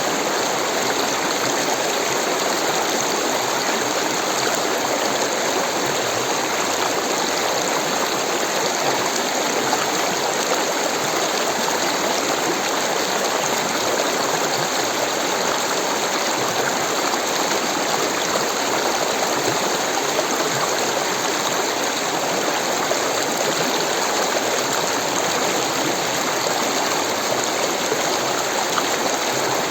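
Rushing water of a stream, a steady even rush that keeps the same level throughout.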